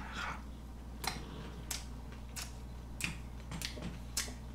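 Close-up wet chewing of a mouthful of salmon roll sushi, with sharp mouth clicks about every half second or so.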